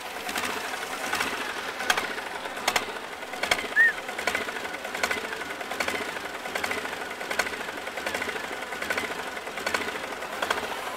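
Polaris diesel ATV's engine running with a steady, rapid clatter just after a cold start.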